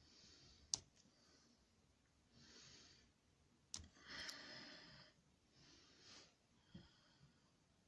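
Near silence with a few faint sharp clicks and soft hissy swells, small sounds of hands handling parts.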